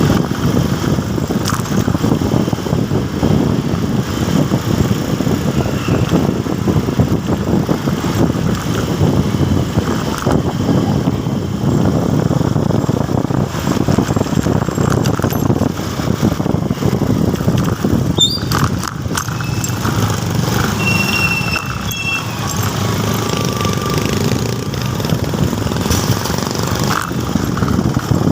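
Motorcycle running on the road, its engine noise mixed with wind rushing over the microphone. A few brief high squeaks come about two-thirds of the way through.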